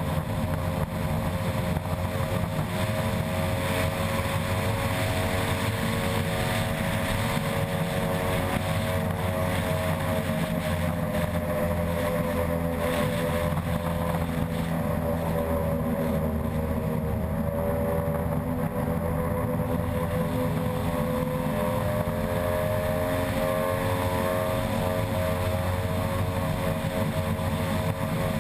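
Unlimited-class ski race boat's outboard engine running flat out at steady high revs, its pitch dipping slightly and recovering now and then, over a constant rush of noise.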